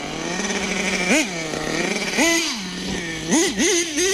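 Small .21 nitro engine in an RC monster truck idling steadily with about five quick throttle blips, each a short rise and fall in pitch. The owner finds the engine still a little lean on the bottom end.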